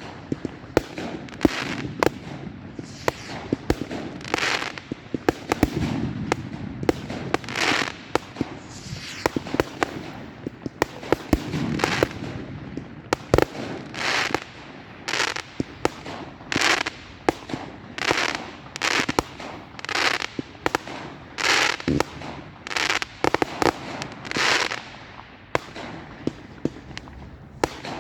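Fireworks going off in quick succession, with a continuous string of sharp bangs and crackling bursts. Through the second half, loud bursts come at a steady pace of roughly one every second.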